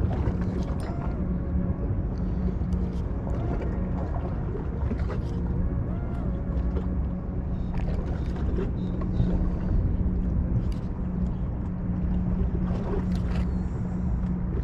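A motorboat engine running steadily out on the river, a low drone. Scattered light clicks and some wind on the microphone sit over it.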